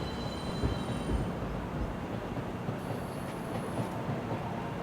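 Steady rumble and hiss inside the passenger car of an ED4M electric commuter train, with a faint high whistle about three seconds in.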